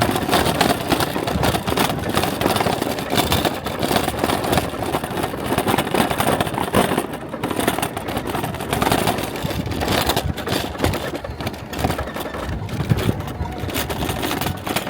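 Steady, rough rumble of a small vehicle riding down a steep, bumpy off-road path, with wind buffeting the microphone.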